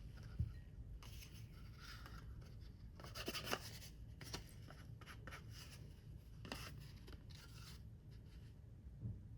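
Paper being handled: faint rustling and scraping, with a few light taps.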